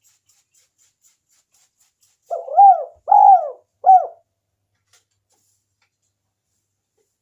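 Spotted dove cooing: a three-note coo starting about two seconds in, each note an arched rise and fall in pitch.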